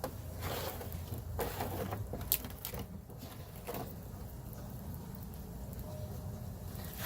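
Filler being worked into a damaged fiberglass area with a spreader: a few short scraping strokes and a sharp click in the first few seconds, over a steady low hum.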